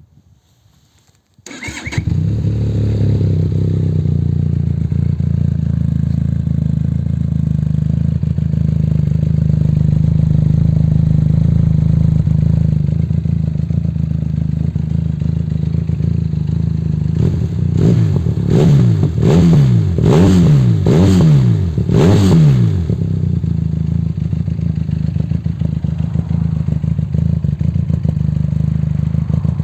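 Benelli TRK 502's parallel-twin engine through a STORM aftermarket exhaust, started about a second and a half in and settling to a steady idle. Past the middle it is revved in five quick throttle blips, each rising and falling, then returns to idle.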